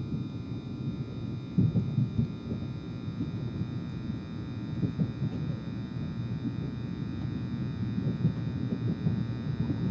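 Passenger train running slowly, heard from inside the carriage: a low rumble of wheels on rails with irregular thumps, over a steady electrical hum.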